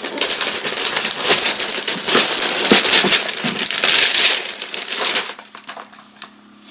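Paper and packaging being torn and crumpled as a present is unwrapped: a dense, loud crackling and rustling that stops about five seconds in.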